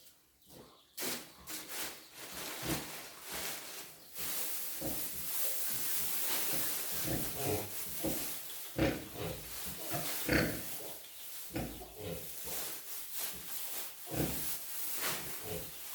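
Pigs grunting in short, irregular calls, with one higher-pitched call about ten seconds in, over a steady hiss that starts about four seconds in.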